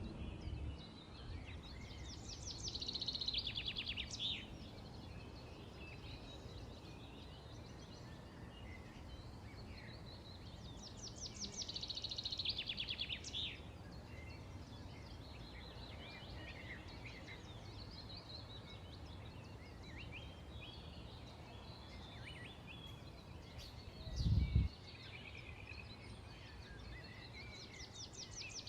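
Wild birds singing: a fast trilled song phrase about two seconds long repeats roughly every ten seconds, with scattered short chirps between, over a steady low rumble of background noise. Late on there is one brief low thump, the loudest sound.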